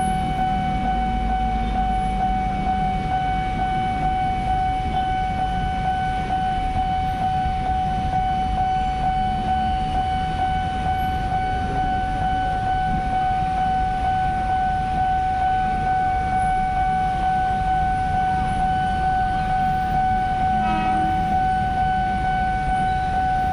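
Railway level-crossing warning alarm sounding one steady, unbroken high tone, over the low rumble of a train of flat wagons passing over the crossing.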